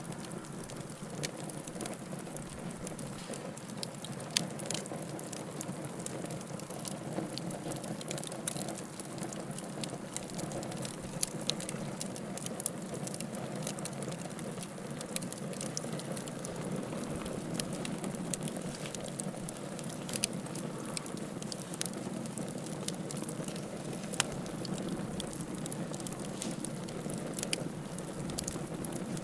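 Firewood burning in a fireplace: a steady low rustling hiss, broken by frequent sharp crackles and pops at irregular moments.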